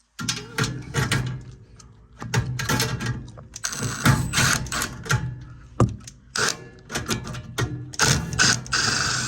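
Metal tools and sheet-metal furnace parts clattering and knocking in quick, irregular clicks and rattles as a bracket is unscrewed and worked loose, louder about four seconds in and again near the end.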